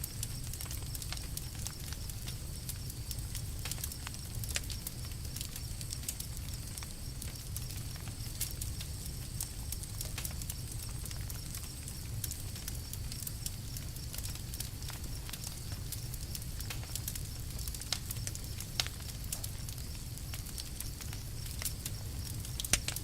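Campfire crackling: scattered sharp pops and snaps of burning wood over a steady low rumble, with a few louder pops, the sharpest near the end.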